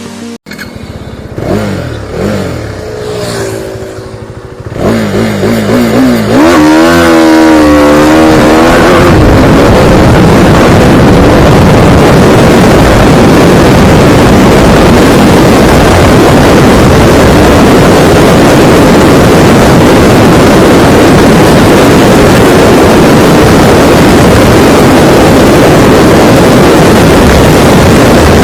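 KTM motorcycle engine accelerating hard, its pitch climbing and dropping back over several gear changes. From about nine seconds in it is swamped by a loud, steady rush of wind noise at speed.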